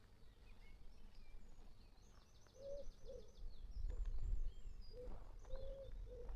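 Outdoor birdsong: small birds chirping, with one rapid trill a couple of seconds in, and a pigeon cooing a few soft low notes in two short phrases. A low rumble in the background grows louder in the second half.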